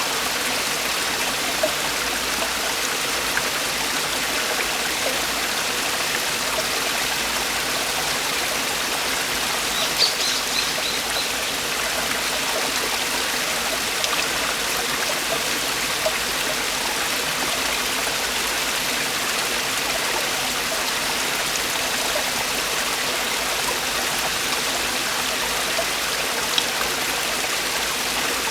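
Mountain valley stream with water falling over rocks, a steady rushing and splashing with a few brief sharper splashes standing out.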